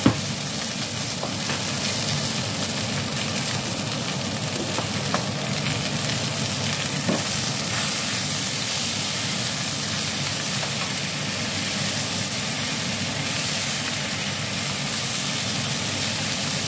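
Chicken wings sizzling steadily as they fry in a nonstick pan, with a few light clicks of metal tongs as the wings are turned.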